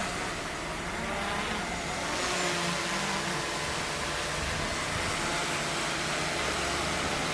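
Motor of earth-moving machinery running steadily, with a continuous hum of several steady tones.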